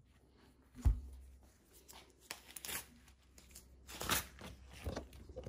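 A low thump about a second in, then irregular rustling, crinkling and small clicks of objects being handled.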